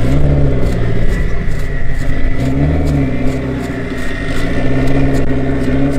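Honda Civic coupe's engine running loud and unsteady, its revs wavering with a dip and recovery about halfway through: idle hunting that is put down to a faulty idle air control valve.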